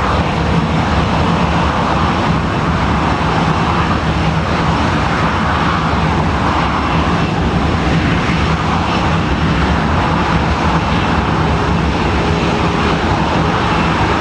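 Jet engines of an All Nippon Airways Boeing 777-200 airliner running loud and steady, a dense even rush of engine noise with a low hum beneath.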